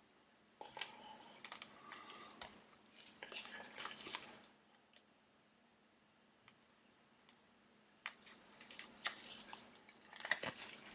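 Trading cards and their packs being handled: quick rustling, sliding and clicking in two bursts, the first from about half a second in to about four and a half seconds, the second starting about eight seconds in.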